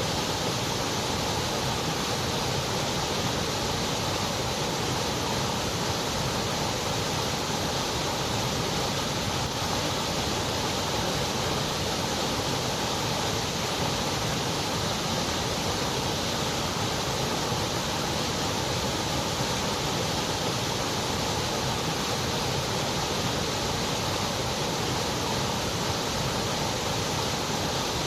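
White noise: a steady, even hiss with no change in level or character.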